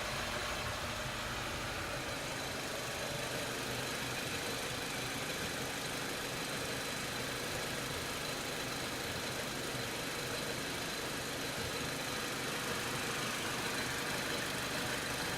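Lada Largus engine idling steadily, running evenly after being started for the first time in seven months.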